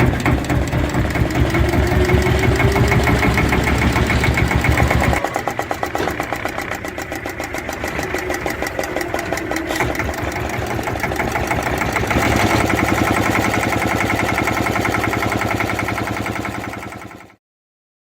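Bolinder-Munktell BM 1051 single-cylinder hot bulb diesel engine running with a steady, even beat. The deep low rumble drops away about five seconds in, and the sound cuts off suddenly near the end.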